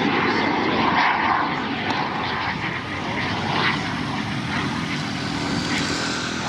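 Aircraft engine running as a plane flies past, a little louder in the first second or so and then steady.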